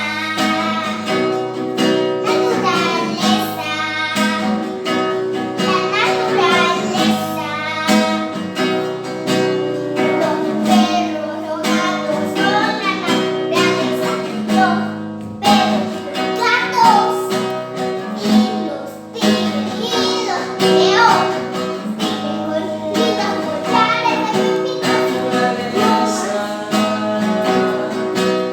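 Improvised music: an acoustic guitar playing a repeating chord pattern, with a singing voice over it.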